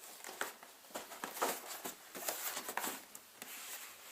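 Hands handling and turning a boxed model's packaging: irregular rustling and scraping of the box, in quick uneven strokes.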